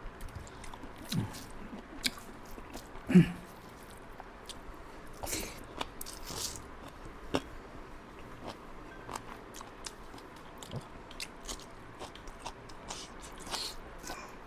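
Close-up eating sounds: biting and chewing, with scattered small crunches and wet clicks as chicken liver and gizzard are chewed. A brief low-pitched sound about three seconds in stands out as the loudest moment.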